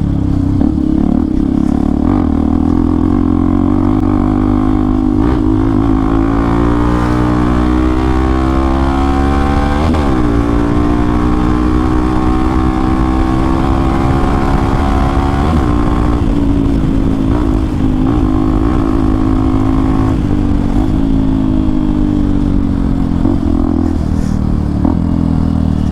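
Hero XPulse 200 4V's single-cylinder engine running through an aftermarket Akrapovic exhaust with the dB killer removed, heard while riding. The engine note rises and falls with the throttle, with brief sharp blips about ten seconds in and again about five seconds later.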